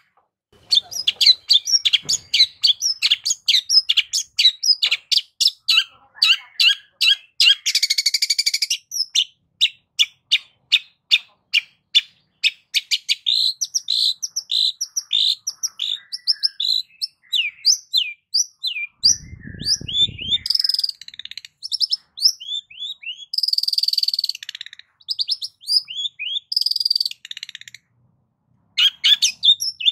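Long-tailed shrike (cendet) singing: a fast run of short, sharp repeated notes, several a second, giving way to varied chattering phrases of mimicked calls. There is a harsh rasping burst about a quarter of the way in and a brief low buzzy sound about two-thirds through.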